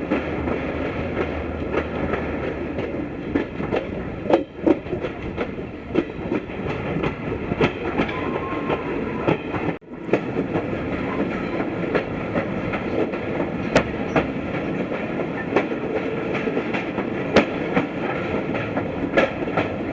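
Passenger train coach running on broad-gauge track, heard from on board: a steady rumble of the carriage with irregular sharp clicks of the wheels over rail joints. The sound drops out briefly about halfway through.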